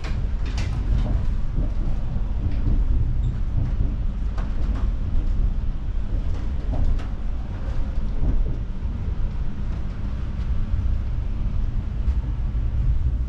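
Cabin running noise of a Lao–China Railway EMU (electric multiple unit) passenger train travelling along the line: a steady low rumble with a few light clicks and knocks.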